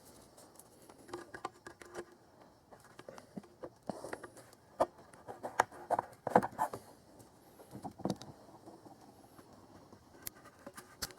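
Scattered light clicks and taps of a spring hose clamp and clamp pliers being handled and worked onto a rubber radiator hose, with a few sharper clicks through the middle and one near the end.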